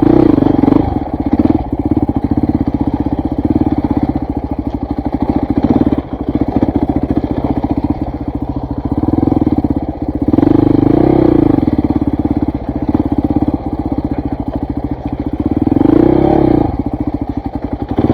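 KTM 400 MXC dirt bike's single-cylinder four-stroke engine running under varying throttle while riding off-road. The revs rise and fall several times, with the loudest surges about a second in, around ten seconds in, and near the end.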